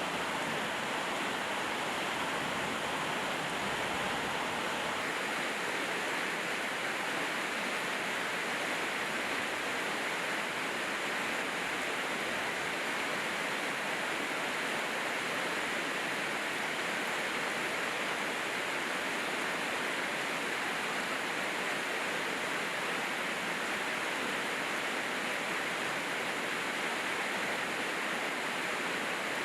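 Steady heavy rain falling, an even hiss that keeps on without letup.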